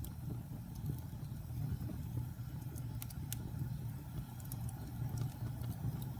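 Wood fire burning in a fireplace: a steady low rumble of flame with scattered small crackles, and two sharper pops about three seconds in.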